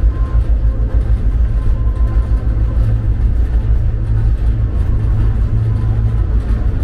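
Steady, heavy low rumble inside the cab of a moving GP38-2 diesel-electric locomotive, its EMD 16-cylinder two-stroke diesel running under way.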